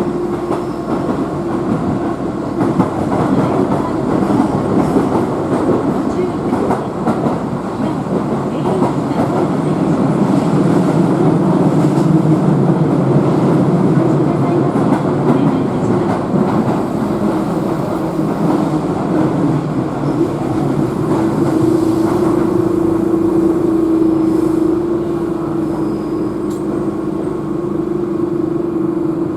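Keihan electric train running on the rails, heard from inside the car: steady wheel-and-rail rumble with a clickety-clack and a steady hum through it, growing louder partway through.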